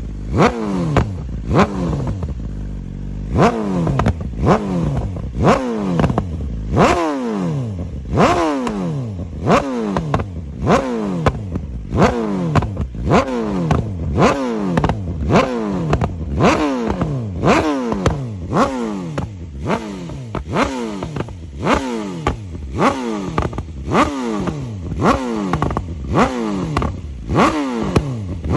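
2023 BMW S1000RR's inline-four engine through a full Akrapovic titanium exhaust, blipped over and over, about once a second: each rev rises sharply and falls straight back, with popping and crackling from the exhaust as the revs drop.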